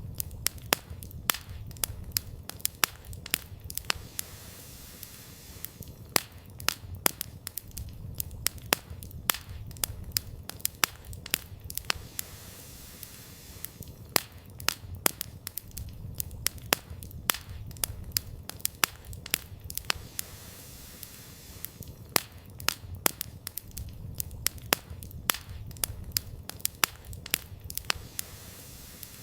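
Wood campfire burning: sharp, irregular crackles and pops from the firewood over a low rumble, with the crackling thinning out for a second or two every several seconds.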